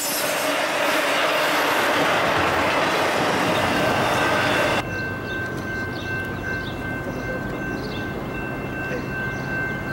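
Double-stack intermodal container train rolling past close by: a steady, loud rumble of wheels on rail. About five seconds in it cuts off abruptly, and a quieter scene follows with faint steady high tones and a low hum that grows near the end.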